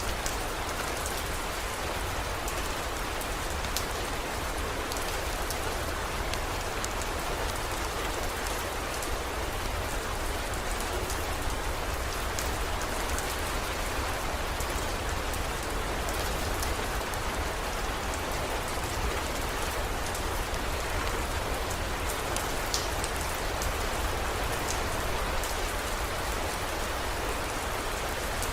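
Steady heavy rain falling, with scattered sharp drop ticks over a constant hiss and a low steady rumble underneath.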